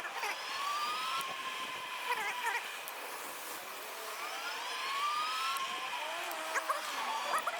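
Squeaking from an e-bike being ridden: several drawn-out squeaks that rise in pitch, over steady wind noise. The bike has a broken left pedal.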